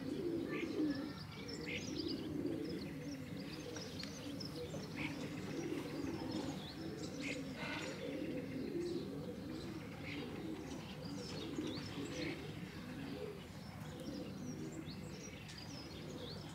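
Racing pigeons cooing steadily, a low wavering murmur, with small birds chirping in short high notes over it.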